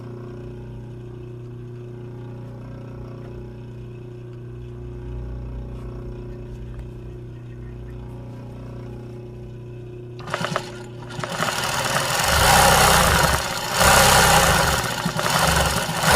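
A steady low hum, then from about ten seconds in a sewing machine running fast in loud bursts, stitching the embroidery, with two brief pauses.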